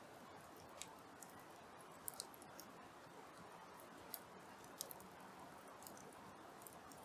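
Hardwood campfire crackling faintly: a low steady hiss with scattered sharp pops, a couple of them close together about two seconds in.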